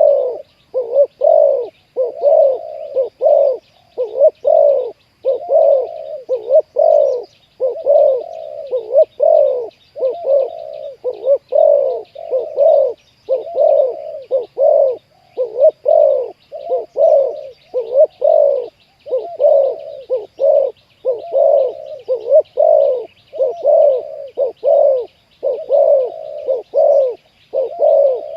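Spotted dove cooing over and over at close range: deep coos repeated in short phrases with brief pauses between. A faint, steady high buzz lies underneath.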